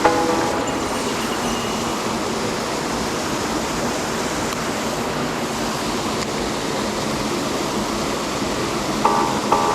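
Steady rush of flowing mountain-stream water. Plucked background-music notes sound at the very start and return about nine seconds in.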